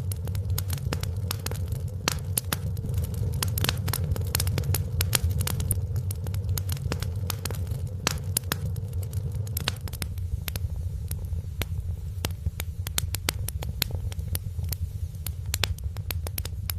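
Wood fire in a fireplace crackling, with frequent sharp snaps and pops over a steady low rumble.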